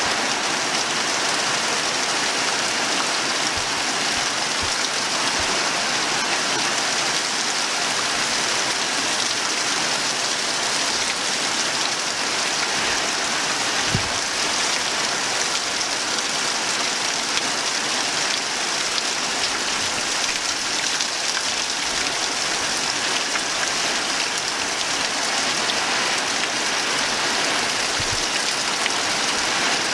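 Steady tropical rain falling, an even hiss with no letup, with a few short low thumps scattered through it.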